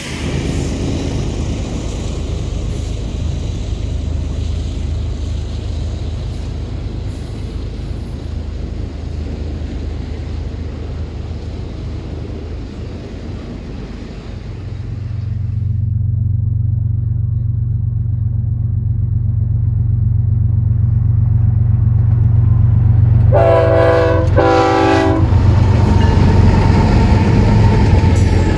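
Freight train cars rolling past on the rails with a steady rumble, giving way about halfway through to a steadier low drone. A locomotive air horn sounds in two short blasts near the end, and the rolling noise of the cars swells again after it.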